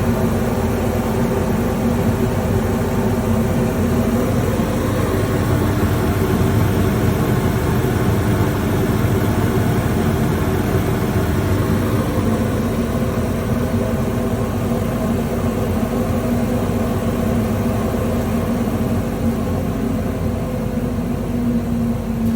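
Industrial sawdust-extraction fan, with a two-speed 11/5.5 kW electric motor and a six-blade metal impeller, running at a steady speed: a constant rushing hum with a low whine.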